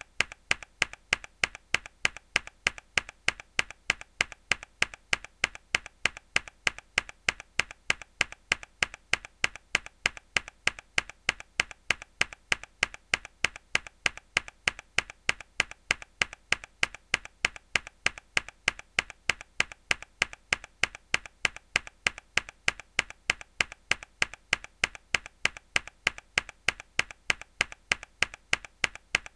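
A single mechanical keyboard key struck hard again and again in a steady loop, about three sharp clicks a second, each followed by a fainter click.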